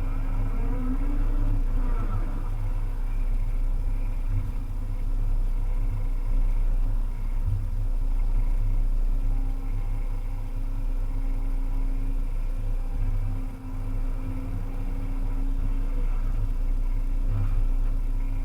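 Volvo EC300E excavator's diesel engine running steadily under work, with a brief wavering whine in the first couple of seconds.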